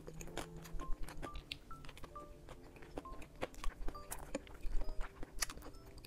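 Close-miked eating sounds: wet chewing clicks and light taps of chopsticks on a plastic tray, scattered irregularly. Under them runs soft background music of short single plinking notes.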